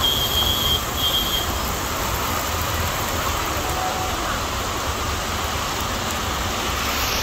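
Heavy rain falling on a waterlogged street, a steady hiss of rain and running floodwater, over the low rumble of the vehicle it is heard from. A thin high squeal sounds twice in the first second and a half.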